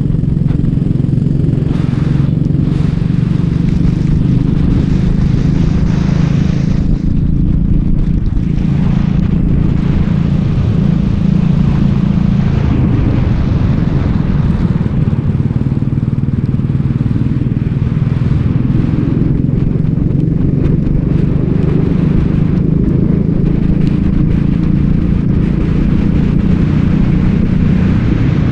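Racing kart engine running hard, heard onboard, its note rising and falling slightly as the kart laps the circuit.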